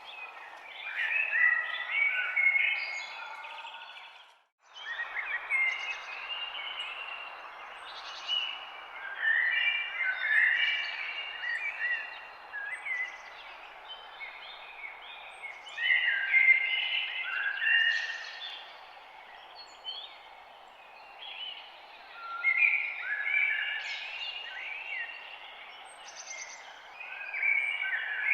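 Several songbirds singing in bursts of short chirps and trills over a steady background hiss of forest ambience. All sound drops out for a moment about four and a half seconds in, then resumes.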